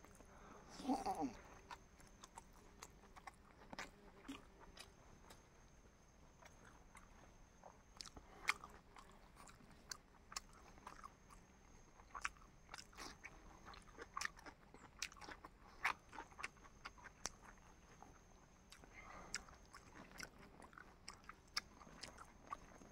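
A person chewing food close to the microphone, with soft irregular mouth clicks throughout.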